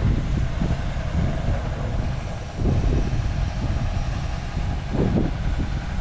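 Big rig diesel engine running with a low rumble that swells and eases irregularly.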